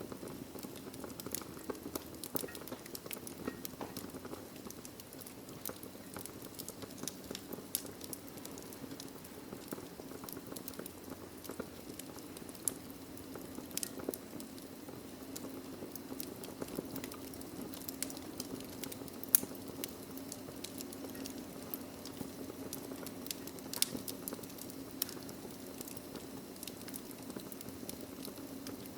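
Log fire burning in a fireplace: irregular sharp crackles and pops of the wood over a steady low rush of the flames, with one louder pop about two-thirds of the way through.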